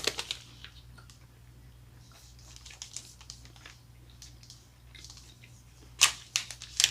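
Crisp crunching and crackling from eating a honeycomb-filled chocolate bar, scattered and faint at first, with a loud cluster of sharp crackles near the end.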